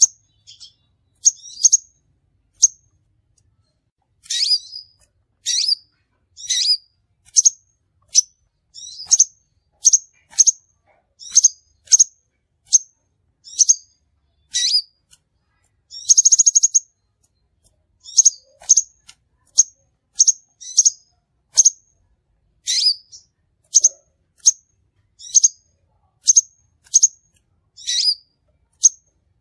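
Crimson sunbird calling: a run of short, sharp, high chirps at about one a second, some sweeping downward, with a brief buzzy trill about sixteen seconds in.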